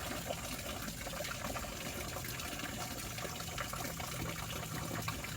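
Steady rushing water, a continuous wash with many small patters in it.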